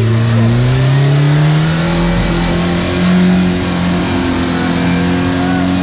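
Off-road vehicle's engine revved hard and held at high rpm, its pitch creeping slowly higher and then staying steady, as when driving under heavy load on a ravine climb.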